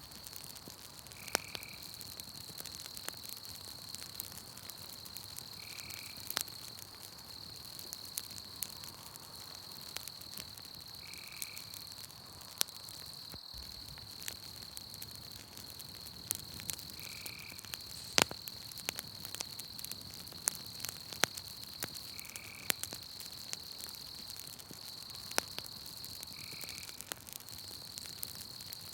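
Campfire crackling with scattered sharp pops, over a continuous high-pitched insect trill. A short call, typical of a frog, repeats about every five seconds.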